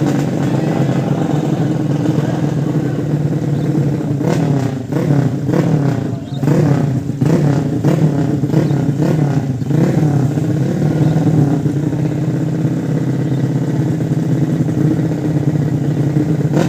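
150 cc racing motorcycle engines running steadily, with a run of quick revs rising and falling in pitch between about four and ten seconds in.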